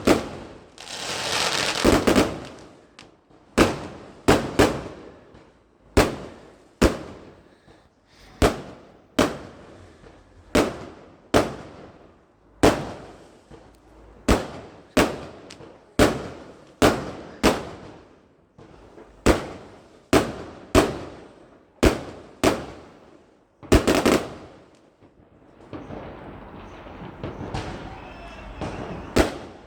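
Fireworks going off: a long string of sharp bangs, about one a second and irregularly spaced, each trailing off in a short echo, with a spell of steadier noise and few bangs near the end.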